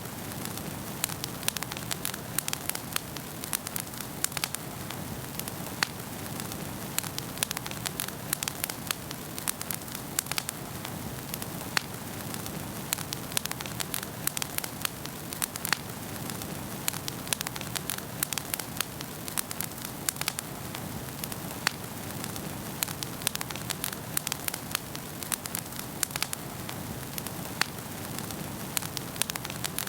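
Wood fire burning in a fireplace: steady low rumble of the flames with sharp, irregular crackles and pops, several a second.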